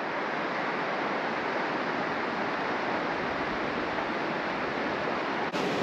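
Trout Creek's flowing water rushing steadily, a continuous even noise.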